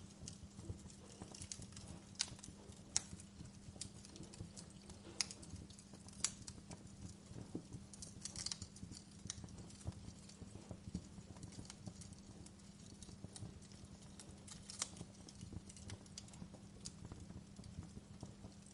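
Wood fire burning in a fireplace, crackling with irregular sharp snaps and pops over a low steady hum.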